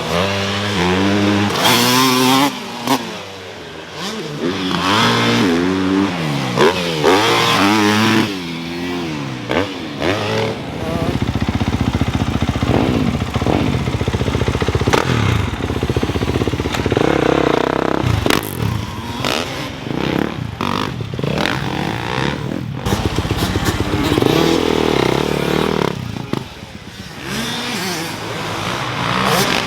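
Motocross dirt bikes revving hard on the track. The pitch climbs and drops again and again as the riders shift and back off, with a denser, louder engine sound about eleven seconds in.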